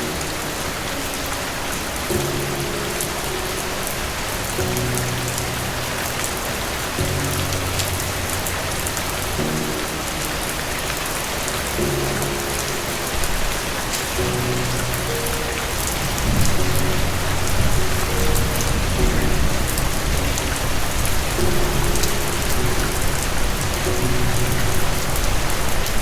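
Steady rain falling, a dense even hiss, with slow, soft low music notes held under it. About two-thirds of the way in, a low rolling rumble of thunder swells and stays to the end.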